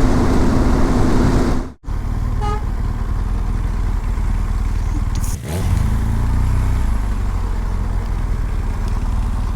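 BMW R1200GS boxer-twin motorcycle engine running under way with road and wind noise. There is a brief cut-out just under two seconds in, and just past the middle the engine note rises as the bike accelerates.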